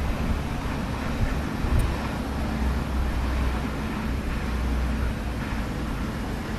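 Wind buffeting the microphone: a gusty low rumble over a steady rushing noise.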